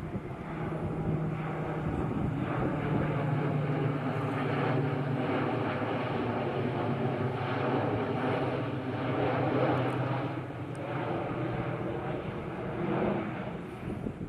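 C-130 Hercules four-engine turboprop flying past with a steady propeller drone; its pitch drops slightly about halfway through as it goes by.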